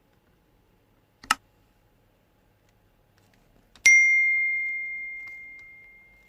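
A short click, then a sharp strike that rings with one clear, bell-like high tone, fading out over about two and a half seconds.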